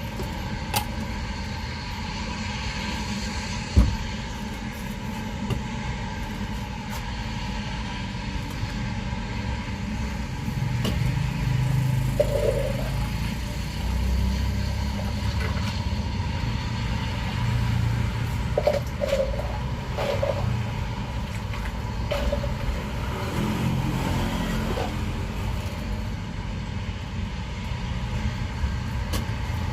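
Motor vehicles running nearby: a steady low rumble of engines and traffic, with one sharp knock about four seconds in.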